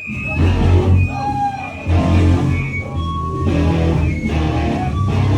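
A powerviolence band playing live and loud: distorted electric guitar, bass and drums, broken into short stop-start bursts.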